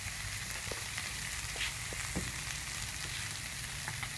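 Diced vegetables frying in oil in a wok: a steady sizzle with scattered small crackles.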